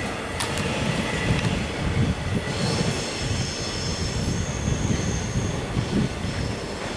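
X'Trapolis electric suburban train running over the tracks with a steady rumble of wheels on rail. From about two and a half seconds in until nearly six seconds, thin high wheel squeal rises over it as the train takes the curved track.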